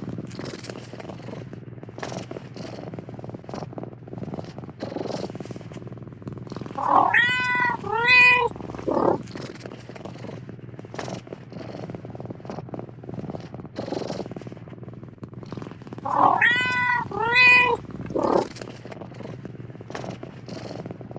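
Domestic cat purring steadily, with two short meows about 7 seconds in and the same pair of meows again about 17 seconds in.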